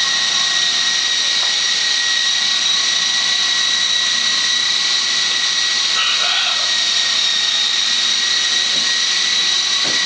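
Radio-controlled model helicopter hovering, its motor and rotor giving a steady high-pitched whine over an even rushing hiss, with no change in pitch or loudness.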